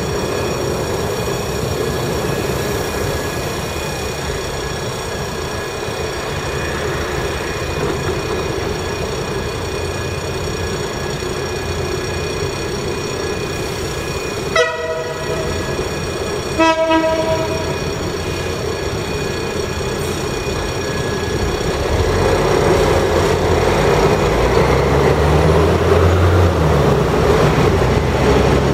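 Two short train-horn blasts about two seconds apart, roughly halfway through, over steady background noise. In the last several seconds the low rumble of an approaching diesel locomotive grows louder.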